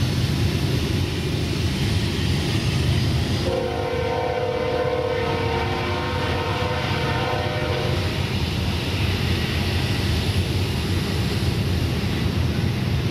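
Union Pacific freight train rolling past, its cars making a steady low rumble on the rails. About three and a half seconds in, a distant multi-note horn chord sounds steadily for about four and a half seconds and cuts off.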